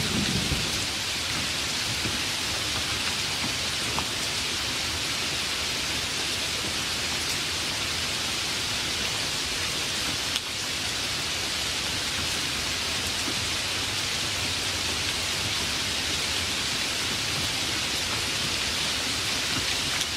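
Steady, heavy rain falling, with the last of a low thunder rumble dying away in the first second.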